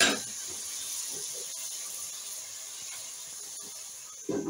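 Chicken pieces sizzling in oil and water in a cooking pot, a steady hiss. Near the end a glass lid is set on the pot with a short clatter, and the sizzle then sounds quieter.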